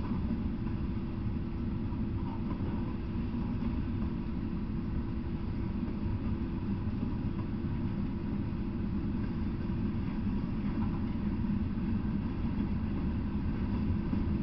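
Freight train cars (tank cars, covered hoppers, coil cars) rolling past at steady speed: a continuous low rumble of steel wheels on rail with a faint constant hum.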